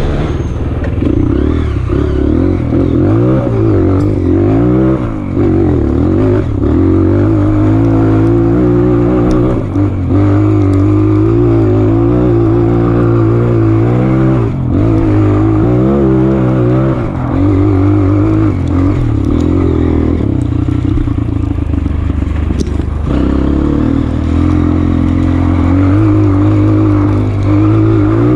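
Honda CRF230F trail bike's single-cylinder four-stroke engine running under constantly changing throttle, revs rising and falling, with a few brief drops as the throttle closes and scattered knocks.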